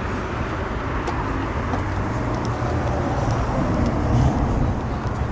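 Motor vehicle noise: a steady road and engine rumble that swells and gets louder about four seconds in.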